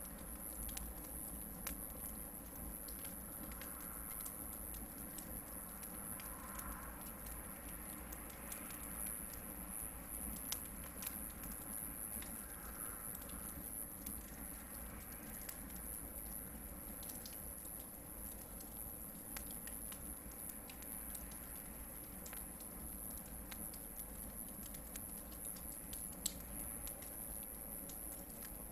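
Hardwood campfire burning, with scattered sharp crackles and pops from the logs and two louder pops, one about ten seconds in and one near the end.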